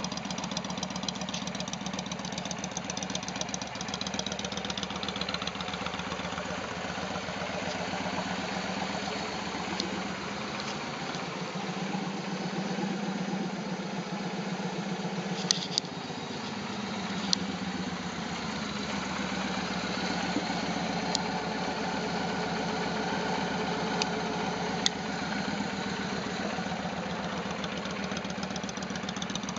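Victory Kingpin's V-twin engine idling steadily, with a few sharp clicks around the middle.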